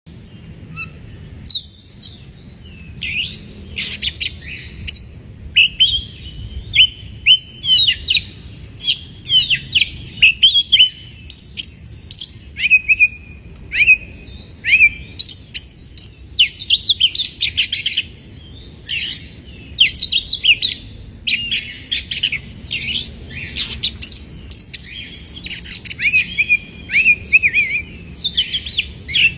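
Oriental magpie-robin singing a long, continuous, varied song of clear whistles, rising and falling notes and quick chattering phrases, in full breeding-season song.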